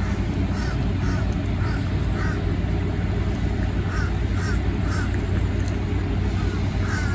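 Birds calling, a string of short calls, over a steady low rumble and hum.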